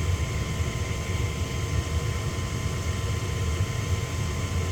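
Lennox gas furnace's draft inducer motor running steadily, a low hum with an even rush of air, during the furnace's ignition sequence before the gas valve opens.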